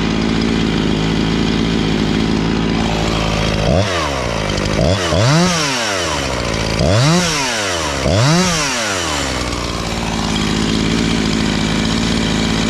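Husqvarna 345 two-stroke chainsaw, just rebuilt and tuned, running at a steady idle. Between about four and nine seconds in it is revved up and let fall back four times, then it returns to idle.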